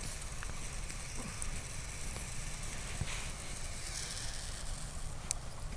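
Sausages sizzling over campfire embers: a steady hiss with a few sharp crackles.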